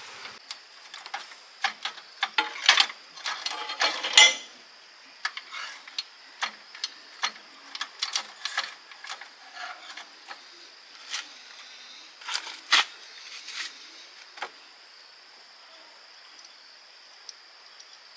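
Irregular metal clinks and knocks of hand tools working on truck gearbox parts, busy and loudest in the first few seconds, then sparser single taps.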